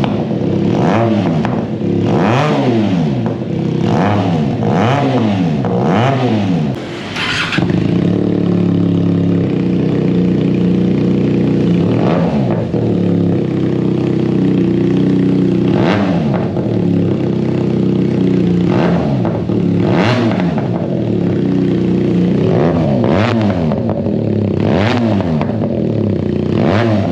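QJMotor SRK 400's 400cc parallel-twin engine being revved in quick blips, one after another through the first seven seconds. It then settles to a steady idle, with further single revs spaced a few seconds apart and a quick run of blips near the end.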